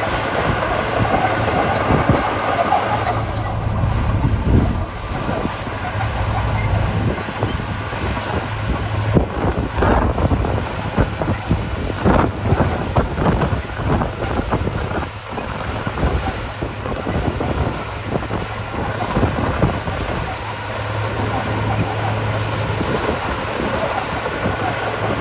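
Komatsu D41P crawler bulldozer's diesel engine running steadily under load, with irregular clanking and knocking from the steel tracks and blade as it pushes gravel.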